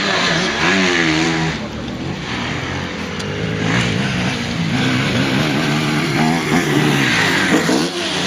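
Motocross motorcycle engine revving, its pitch rising and falling again and again with throttle and gear changes.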